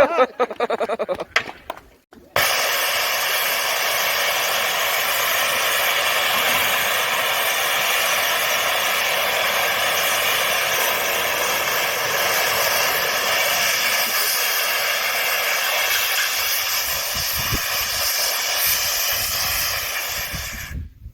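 Steam escaping from a steam traction engine with a loud, steady hiss that starts suddenly about two seconds in, holds for nearly twenty seconds, then fades and stops.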